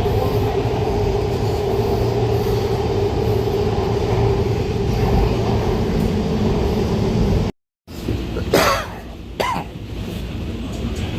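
Metro subway train running at speed, heard inside the car: a steady rumble with a constant whine. After a sudden cut partway through, the rumble is quieter and two short sudden bursts sound about a second apart.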